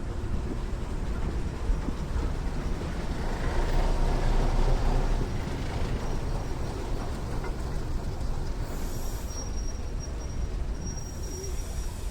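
A train running along the track with a steady rumble that swells a few seconds in, and a thin, steady, high wheel squeal through the second half.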